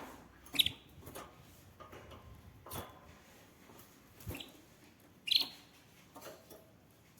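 Canary giving a few short, separate chirps a few seconds apart, the loudest about five seconds in, with sharp clicks and taps in between.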